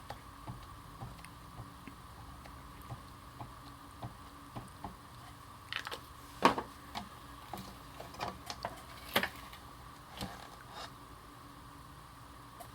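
Light, irregular taps and clicks of an ink pad being dabbed onto a stamp and the stamp being handled, with a few sharper knocks in the second half. A faint steady hum runs underneath.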